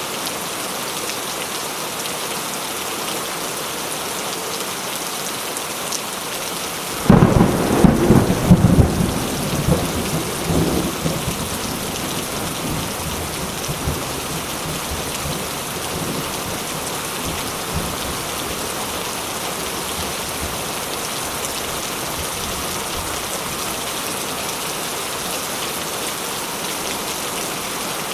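Steady rain falling, with a sudden clap of thunder about seven seconds in that rumbles on for several seconds before fading back under the rain.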